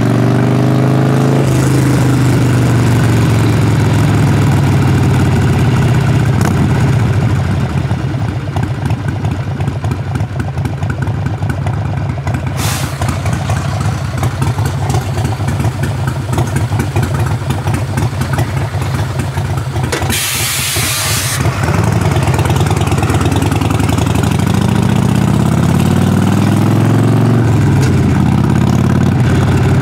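Harley-Davidson Sportster Forty-Eight's air-cooled V-twin exhaust under way. The revs rise and fall through gear changes, drop to a lower, rougher putter in the middle as the bike eases off, then climb again as it pulls away.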